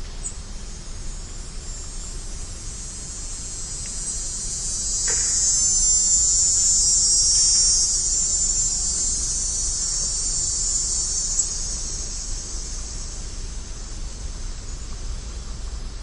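Chorus of insects trilling steadily at a high pitch, swelling louder in the middle and then easing off again.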